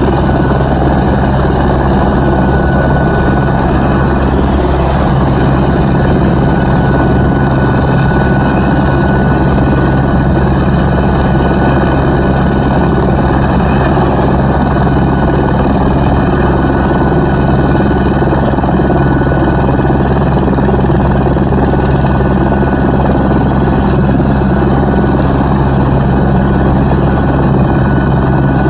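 Airbus H125 single-engine helicopter running steadily, its rotor and turbine at an even pitch with a thin, steady high tone over the low throb.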